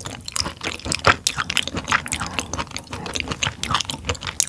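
Close-miked chewing of raw tuna sashimi, heard as a quick, dense run of short mouth clicks and smacks; the fish is chewy.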